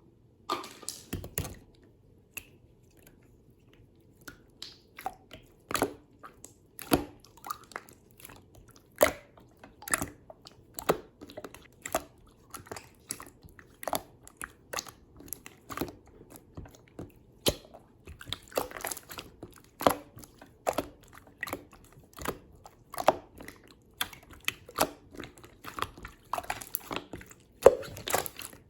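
Clear slime being squeezed and poked by hand, giving irregular wet clicks and pops, roughly one or two a second.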